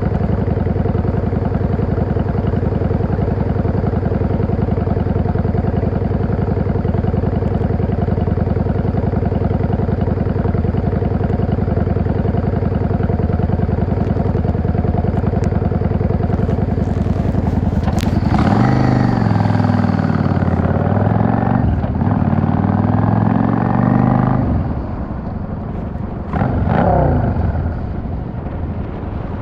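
Yamaha XVS 650 V-Star's air-cooled V-twin engine idling steadily, then pulling away: the pitch climbs, dips at a gearshift, climbs again and falls off as the throttle closes. A short rev rises and falls near the end.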